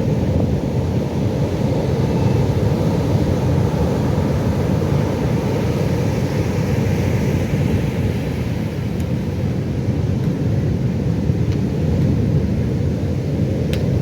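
Pacific Ocean surf: a steady low rumble of waves breaking, with little rise and fall.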